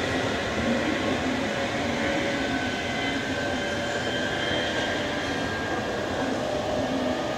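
Electric trains running on the line: a two-car JR 719 series EMU pulling away while another electric train approaches on the adjacent track, a steady rumble with faint sustained high tones over it.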